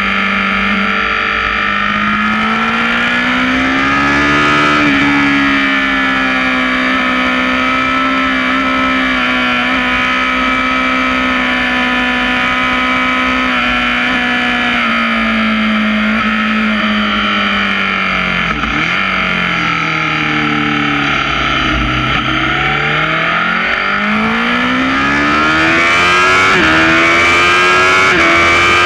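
Sport motorcycle engine at high revs, heard from a mount on its fairing with wind rushing past. The revs hold steady for a long stretch, then drop away about two-thirds of the way through as the bike brakes and shifts down for a corner, and climb again near the end with short steps as it shifts up.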